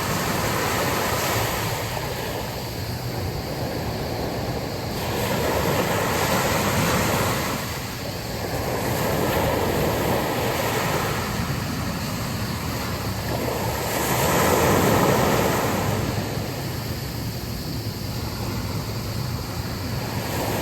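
Sea waves breaking and washing on a beach, the surf swelling and ebbing in slow surges every few seconds, with wind noise.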